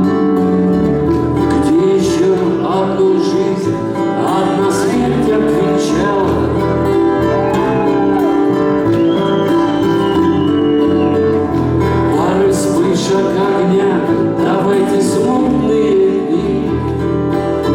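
Live band music: guitars playing held chords over a bass that pulses about once a second, with a few sliding melody notes on top and no sung words.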